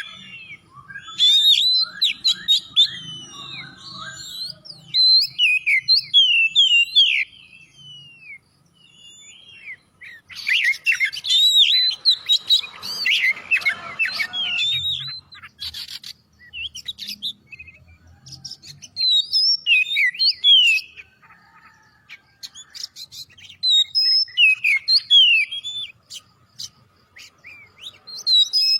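Oriental magpie-robin (kacer) singing: bouts of rapid, varied whistles and chirps, broken by short pauses, with a denser, harsher passage about halfway through.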